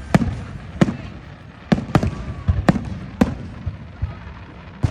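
Festive fireworks salute: aerial shells bursting in sharp bangs, about seven at irregular intervals, with a low rumble between them.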